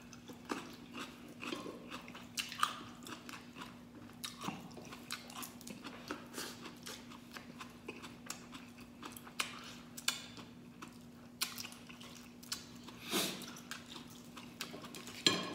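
Chewing and biting of a person eating mud crab in coconut milk with rice by hand, with many small clicks and crunches of crab shell and wet mouth sounds. A steady low hum runs underneath.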